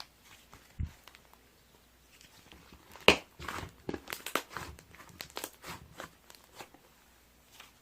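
Slime being squeezed and poked by hand, with a single soft thump just under a second in, then a run of crackling, popping clicks from about three seconds in.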